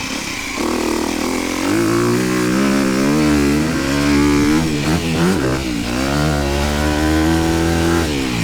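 Honda motocross bike's engine being ridden hard, revving up and dropping back again and again as the throttle is worked.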